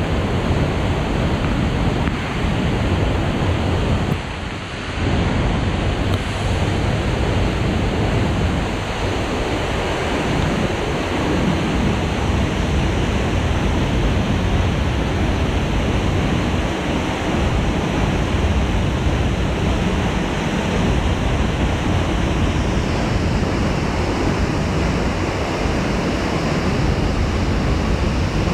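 Heavy flooding rain in rainforest, a steady, dense rush of water that dips briefly about four seconds in.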